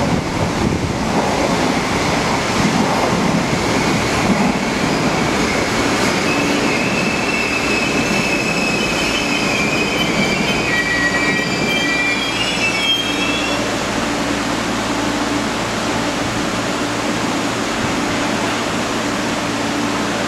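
Passenger coaches rolling past along the platform track, then train wheels squealing on the curve for several seconds. About halfway through, a steady low hum from an MTR East Rail electric train (MLR) standing at the platform comes in.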